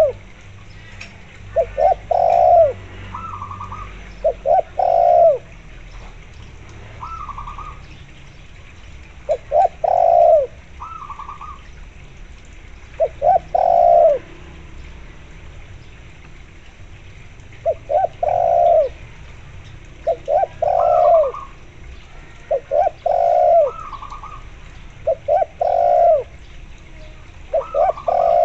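Spotted dove cooing repeatedly, about ten low phrases of a few quick notes running into a longer coo, two to five seconds apart. Fainter, higher-pitched zebra dove coos come in between.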